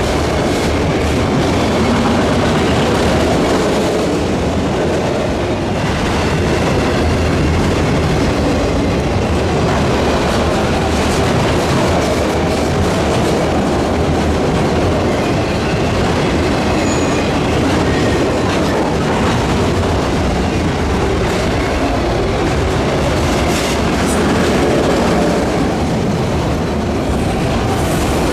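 Freight cars of a Canadian National manifest train rolling past steadily, wheels clicking over the rail joints, with a faint wheel squeal here and there.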